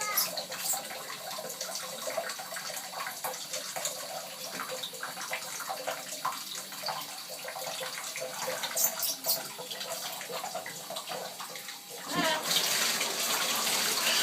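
Water splashing and trickling in a small bath, with scattered light splashes. About twelve seconds in, a louder, steady rush of running water starts.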